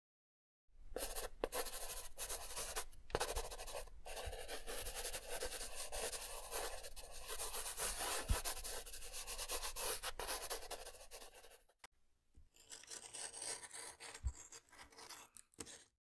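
Pen scratching across paper while tracing an outline: a dry, scratchy rubbing with small ticks in it. It stops about eleven seconds in, and fainter, broken scratching follows.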